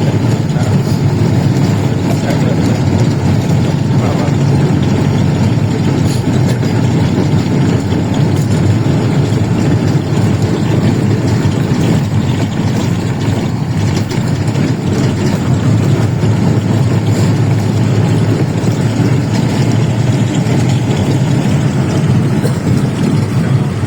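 An engine running steadily, a constant low drone that neither rises nor falls.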